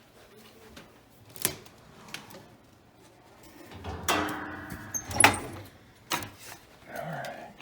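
A door with a creaking hinge being opened, a squeak about four seconds in, amid a few sharp clicks and knocks.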